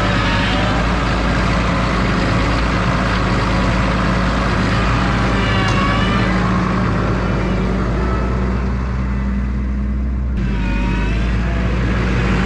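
Tractor engine running steadily under load, with wavering high-pitched squeals a few times: near the start, about six seconds in and again near the end.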